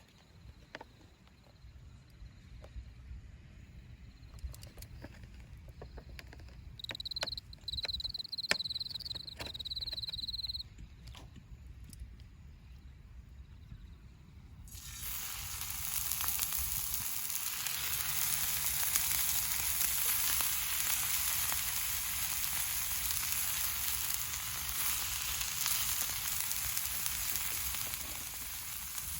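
Faint clicks and crackles, with a brief high warbling tone a quarter of the way in. About halfway through, a loud, steady sizzle starts suddenly and keeps going: food frying in a hot pan over a wood fire.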